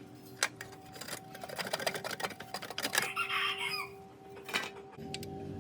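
A chicken calls once, briefly, about three seconds in, among scattered sharp clicks and knocks. A faint steady hum runs underneath.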